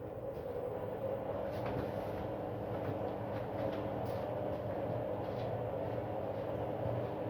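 Arctic washing machine running in service test mode, its motor and drum giving a steady hum and rumble. The owner takes the noise for a fault, with the machine in a suds-lock state.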